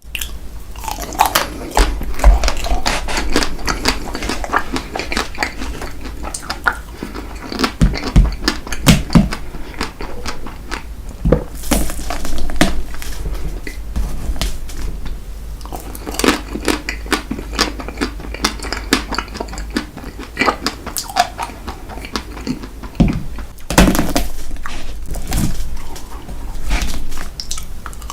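Close-miked eating sounds: wet chewing and mouth smacks from eating a strawberry-chocolate ice cream cake, mixed with frequent sharp clicks of a utensil against a dish.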